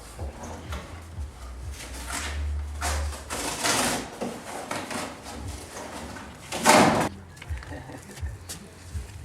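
Things being handled and moved about: irregular clattering and rustling, with the loudest short burst of noise about seven seconds in. A low hum runs through the first three seconds.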